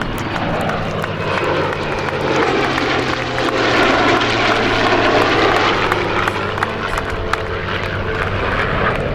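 A USAF Heritage Flight formation, an F-35 Lightning II jet and a P-51D Mustang propeller fighter, making a flypast. The loud roar swells to a peak about four to five seconds in and then fades as the aircraft pass.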